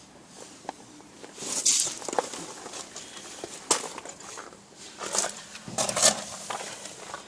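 New brake pads and their metal shims being handled: scattered light clicks and clinks with a few brief rustling scrapes.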